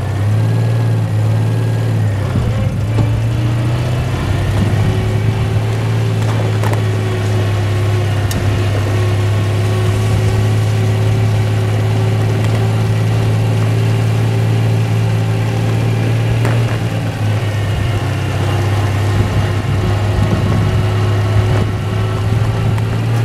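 Citroën 2CV6's air-cooled flat-twin engine running as the car drives along. It is heard inside the open, doorless bodyshell. The engine note rises a few seconds in, then holds steady.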